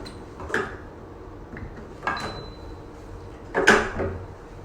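Plastic tube fittings being pushed into the connector holes of a hydrofacial machine: three sudden clicks and knocks of plastic handling, the last the loudest.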